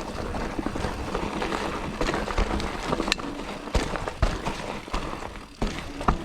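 Mountain bike rolling over a leaf-strewn dirt trail: steady tyre and drivetrain noise, with the chain and frame rattling and sharp knocks over bumps, several of them past the middle.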